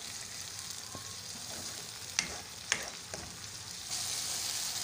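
Onion, tomato and spice masala sizzling in hot oil in a frying pan while a spoon stirs it through, the bhuna stage of a curry base. Two sharp taps of the spoon against the pan come about halfway through, and the sizzle grows louder near the end.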